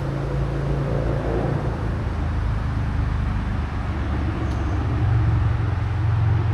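Steady low rumble of road traffic on a nearby major road, growing slightly louder near the end.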